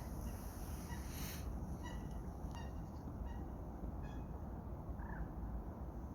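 A bird calling in short, repeated notes, roughly one every second or less, with one lower, curving call near the end, over a steady low rumble.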